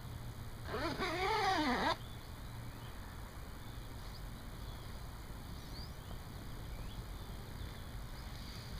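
A single drawn-out animal call about a second in, rising and then falling in pitch and lasting about a second, over a steady low background.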